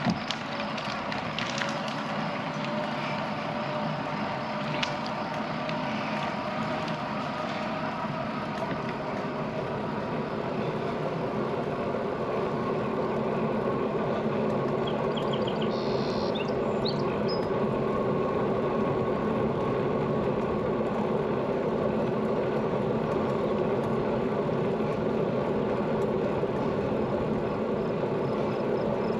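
Road bicycle riding on pavement: a steady hum of tyres and drivetrain with wind on the microphone, getting a little louder about ten seconds in.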